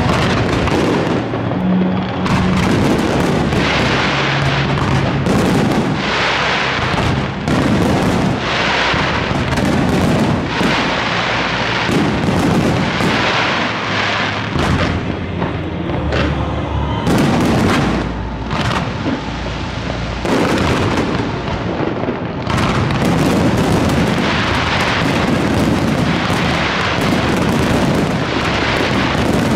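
Aerial fireworks display: shells bursting in a continuous barrage of rapid, overlapping bangs and booms.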